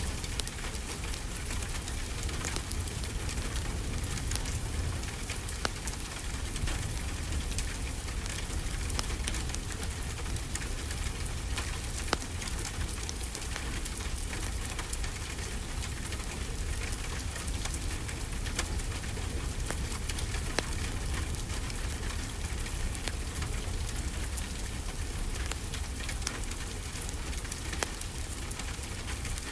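Steady rain with a low rumble underneath and a crackling wood fire, its sharp pops scattered irregularly through the hiss.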